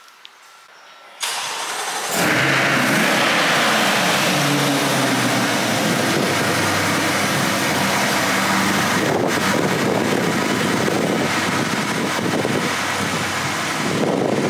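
2021 C8 Corvette's 6.2-litre V8 starting: a sudden burst of sound about a second in, then the engine catches with a rev flare a second later. The revs sink over a few seconds and it settles into a loud, steady idle.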